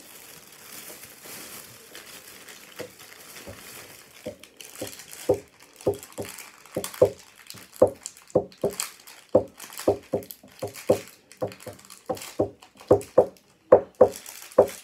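Plastic snack wrapper crinkling, then someone chewing a fruit snack with wet mouth sounds, about two chews a second.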